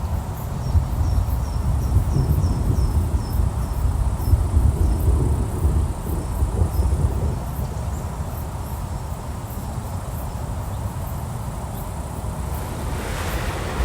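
Crickets chirping: a steady high-pitched trill with a run of short chirps, about three a second, in the first few seconds. Under it is a low, uneven rumble of distant thunder, and near the end a rushing hiss swells up.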